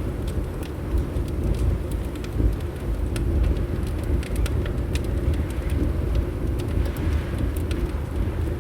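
Fireplace crackling, irregular sharp little pops and clicks scattered throughout, over a steady low rumble of wind.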